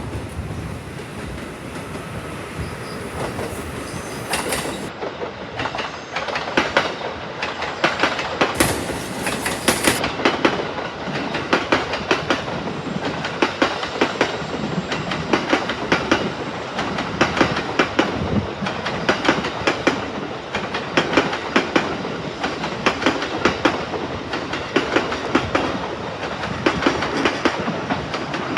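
Electric train running past, its wheels clacking over the rail joints in a quick, steady rhythm that starts about five seconds in.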